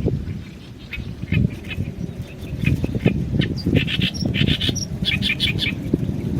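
Male Oriental reed warbler singing its harsh, chattering song: quick clusters of grating notes repeated in bursts, busiest in the second half. A low rumble runs underneath.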